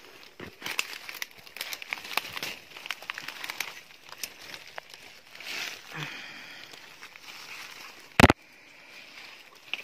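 Light crackling and rustling, then a single sharp rifle shot about eight seconds in.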